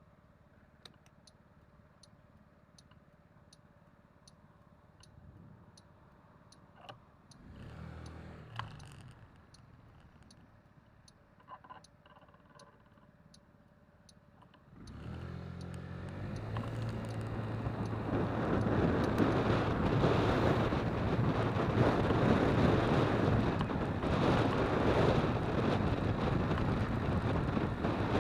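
Jet airliner flying low overhead near the runway: its roar rises from about halfway through and stays loud, with a steady low hum under the rushing noise.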